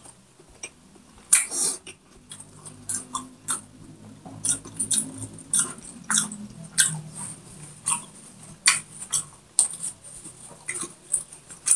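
Close-miked chewing of food, with wet mouth clicks and smacks coming about once or twice a second.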